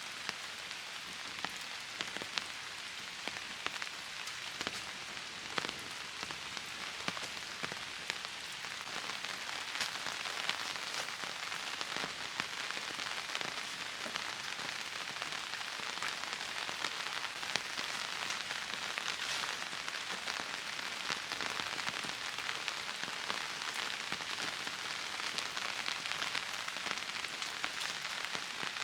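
Steady rain falling, with many single drops striking close by; it grows a little heavier about ten seconds in.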